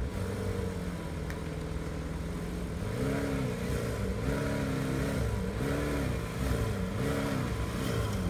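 Lamborghini Centenario's 6.5-litre V12 idling steadily, then from about three seconds in revved again and again, the pitch rising and falling about once a second.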